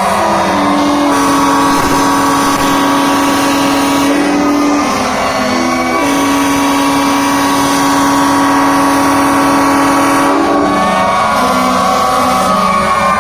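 Fire truck air horns blaring in long, held blasts that shift in pitch, with sirens wailing underneath at the start and again near the end.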